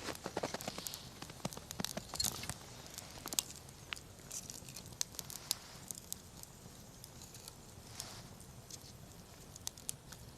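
Wood campfire crackling, with many sharp pops and snaps that come thick in the first few seconds and then thin out to scattered ones over a low hiss.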